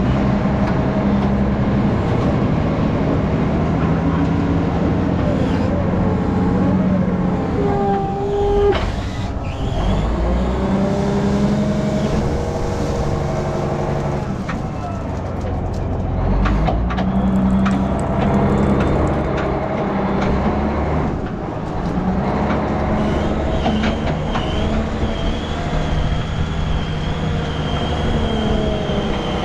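Heavy gravel truck's diesel engine running under way, its pitch climbing and dropping every few seconds as it works through the gears, with a thin high whine coming in near the end.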